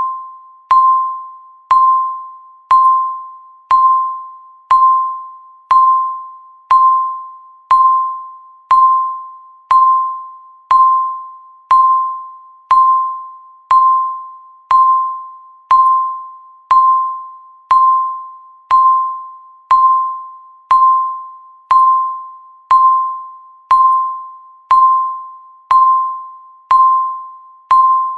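Countdown timer's electronic beep, one every second: a single clear tone struck sharply and fading away before the next, marking each second of the count.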